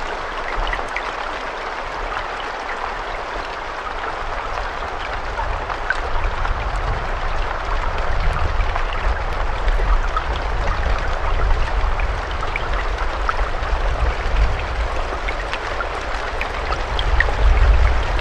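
Steady rain falling, a dense even hiss with scattered individual drop ticks. A low rumble underneath grows stronger about five seconds in and swells again near the end.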